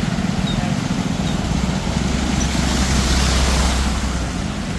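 A motor vehicle driving past through floodwater: its engine hum and a rush of water swell to a peak around the middle, then fade as it goes by.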